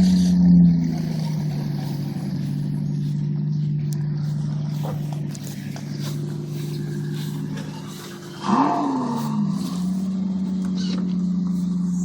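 Car engine running steadily. About eight and a half seconds in there is a brief rev, its pitch rising and then falling back.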